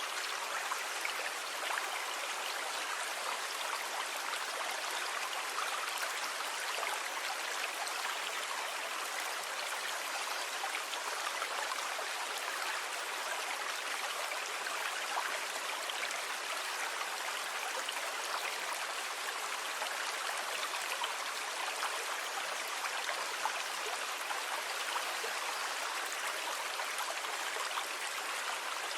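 Sea water making a steady hiss with fine crackling, even throughout, with no audible rise and fall of separate waves.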